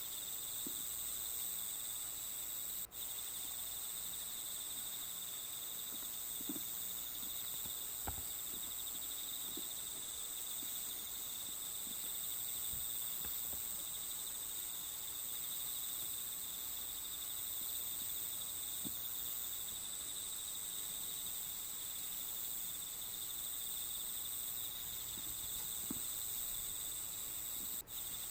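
A steady chorus of insects, crickets by the sound, trilling continuously at several high pitches as a nature-sound background. A few faint light taps come through underneath, and the sound drops out for an instant twice.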